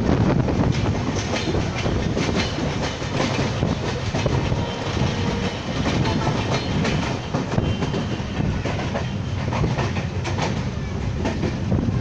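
Passenger train running, its wheels clattering over the rail joints in a steady rumble.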